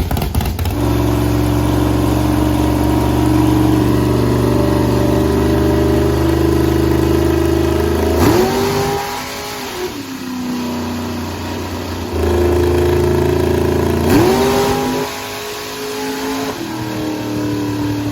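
10.3-litre big-block V8 running on a chassis dyno at a steady pitch, then revved sharply twice, about eight and fourteen seconds in. Each time it falls back to a lower, quieter tone.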